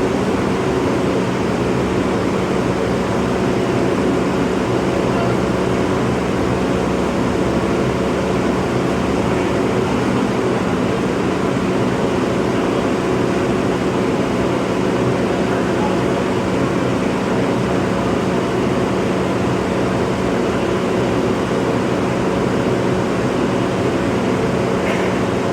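Bobcat skid steer's engine running at a steady speed, one unchanging hum.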